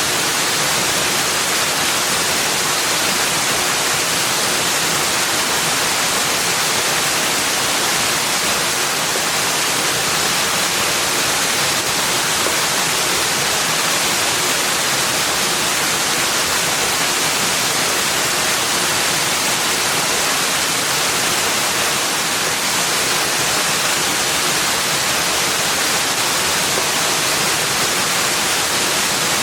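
Steady rushing of running water, like a stream or waterfall: an unbroken, even hiss, strongest in the high end, with no separate events.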